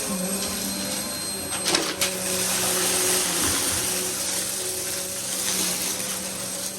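Vacuum cleaner running steadily with its motor hum, a sharp knock a little under two seconds in, after which it runs slightly louder.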